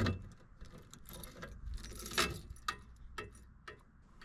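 Fuel-tank gas cap being twisted off and handled: a run of small plastic clicks and rattles, with a louder brief rush about two seconds in that the owner takes for pressure held in the tank, a sign the cap is sealing.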